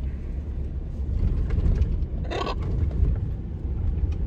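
Steady low road and engine rumble inside a moving car, with one short macaw squawk about two seconds in.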